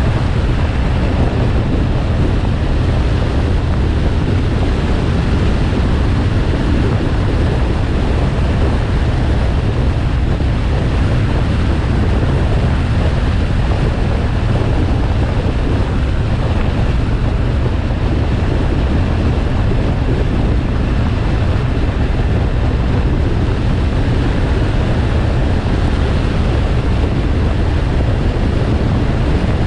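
Steady wind rush on the microphone over the low rumble of a motorcycle riding at a constant speed.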